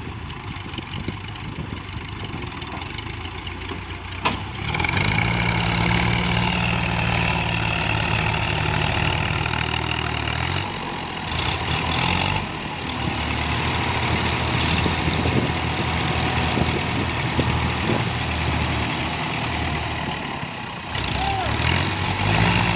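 A tractor's diesel engine labouring under the load of a heavily loaded trolley. It steps up louder about four seconds in, just after a sharp click, and holds there with brief dips.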